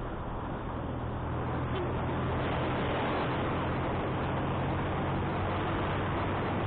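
Motorcycle engine running steadily under heavy wind noise on the microphone while riding uphill; the wind rush grows a little louder about two seconds in.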